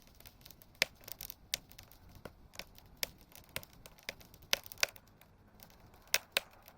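Wood campfire crackling calmly: irregular sharp pops and snaps, a few of them louder than the rest.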